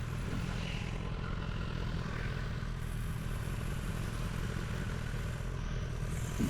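Steady low engine drone and road noise from a vehicle driving along.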